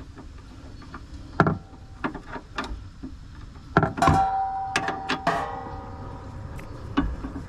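Metal hand tools clinking and knocking against each other and the car's suspension parts, with a few sharp separate clinks. About four seconds in, two louder strikes ring on briefly with a metallic tone.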